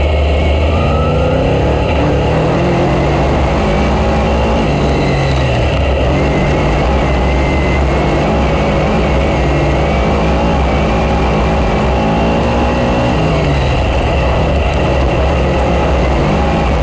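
Race car engine running hard and loud, its revs rising and falling over and over as on laps around a track.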